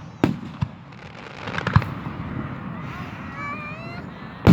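Fireworks show: aerial shells bursting with sharp booms, two close together at the start, another under two seconds in, and the loudest right at the end, over a steady low rumble of the show.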